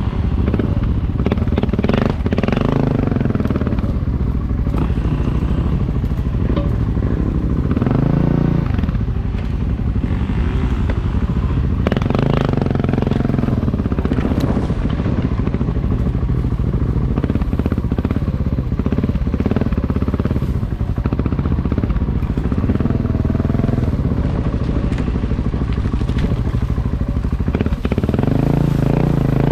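Motorcycle engine running while riding, its note rising and falling several times with the throttle.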